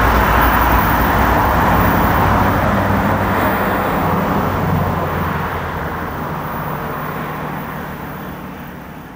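Diesel locomotive of a track geometry train running away down the line, its engine hum and the rumble of the wheels on the rails slowly fading.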